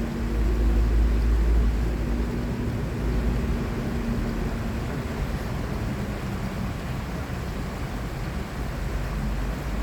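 Outdoor city ambience: a steady rumble of traffic, with a low engine hum that fades out about four seconds in.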